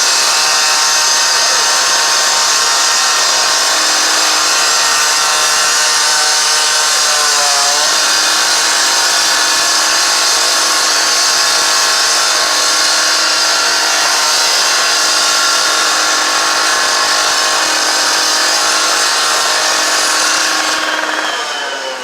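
Steady, loud machine whine over a hiss, with a brief wavering of pitch about eight seconds in; it fades near the end.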